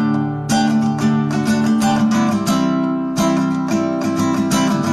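Acoustic guitar strummed in a steady rhythm, chords ringing between short breaks.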